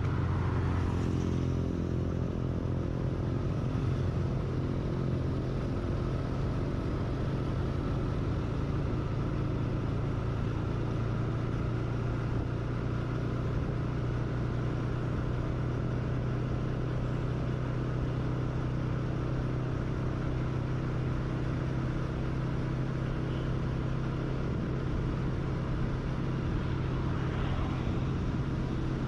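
Motorcycle engine running at a steady cruising speed while being ridden, with road noise.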